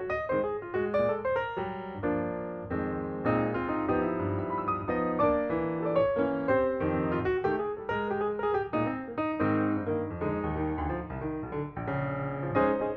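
Piano music: a flowing melody over shifting chords, notes struck in quick succession.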